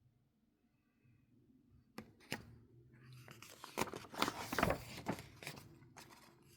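Handling noise: quiet at first, then about two seconds in a couple of sharp clicks, followed by a few seconds of rustling and tapping.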